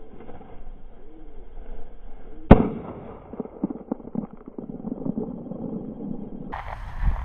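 A single shotgun shot about two and a half seconds in, fired at a flushed quail, followed by rustling and crackling in the cover.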